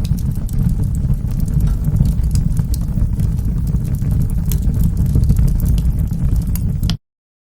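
Wood fire in a fireplace crackling, with sharp irregular pops over a steady low rumble of the flames. The sound cuts out abruptly to silence near the end.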